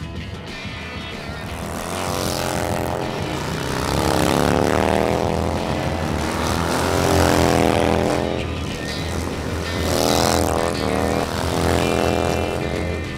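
Motorcycle engines revving hard and passing by, in several loud swells with the pitch rising and falling, over background music.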